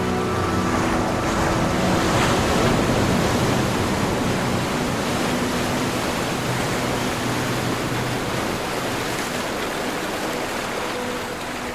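Ocean waves washing ashore as a steady rushing surf that swells about two seconds in and then slowly eases. Soft held musical tones sound under the waves at the start and again near the end.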